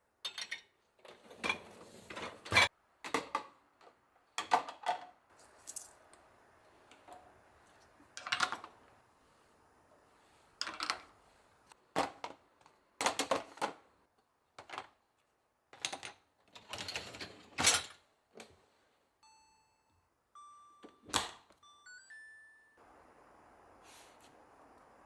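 A long series of sharp clicks and knocks from kitchen objects being handled and set down. About twenty seconds in comes a short electronic beep tune of stepped tones, like a kitchen appliance's signal.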